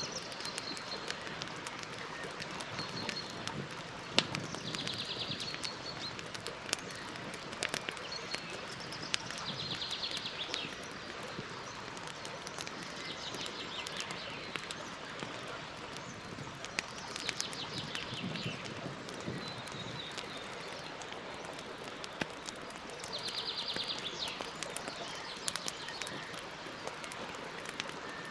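Campfire crackling, with many sharp pops over a steady hiss. A bird sings a short high trill every few seconds.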